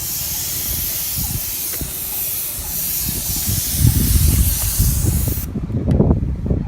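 Steady high-pressure spray hissing from a nozzle during roof restoration, which cuts off suddenly about five and a half seconds in. Low rumbling noise builds underneath from about four seconds in.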